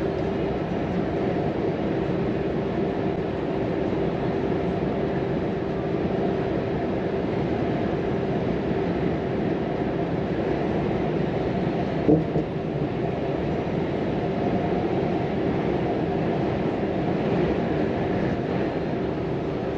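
Volvo FM 420 truck's inline-six diesel running steadily at cruise with road noise, heard from inside the cab as an even drone with a steady hum. One short knock sounds about two-thirds of the way through.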